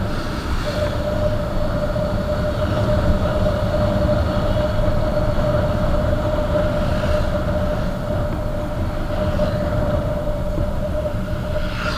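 Motorcycle riding at road speed: a steady engine drone with a constant held tone over wind rumble on the microphone.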